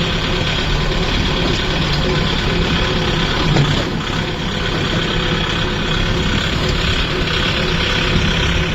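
Kubota MU 5502 tractor's four-cylinder diesel engine running steadily at a low, even speed.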